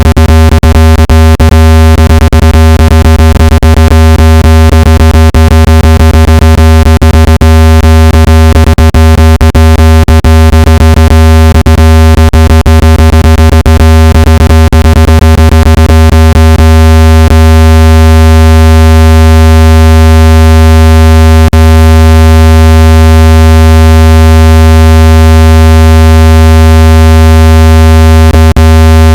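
A loud, steady, low-pitched electronic tone with many overtones: a water-eject tone played at full volume to shake water out of a phone speaker. Sharp clicks crackle through it for the first half, then thin out to a few after about seventeen seconds.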